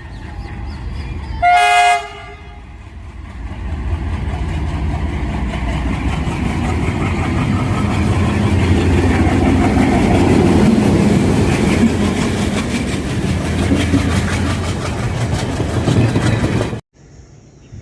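WDM3A diesel-electric locomotive gives one short horn blast, then the express passes close by: the locomotive's diesel engine and the rhythmic clickety-clack of the coaches' wheels over the rail joints, building up and running on loudly before cutting off suddenly near the end.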